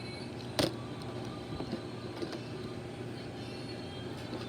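A diecast toy car being handled: a single sharp click about half a second in, then a few faint light taps, over a steady low hum.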